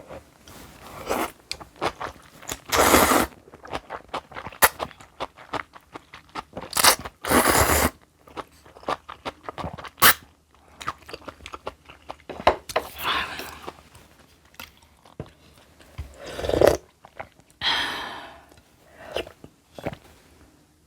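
Close-miked crunching and chewing of fermented kimchi, with a few loud crunchy bites among many small wet clicks of chewing.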